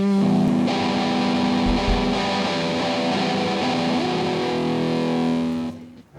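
Music played on an electric guitar with a distorted, effects-laden tone, holding sustained notes with a few sliding pitches; it cuts off shortly before the end.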